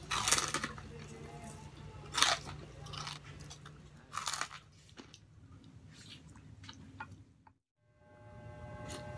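A person biting into and chewing crispy fried pork close to the microphone: three loud crunches about two seconds apart, with quieter wet chewing between. The sound cuts off briefly near the end.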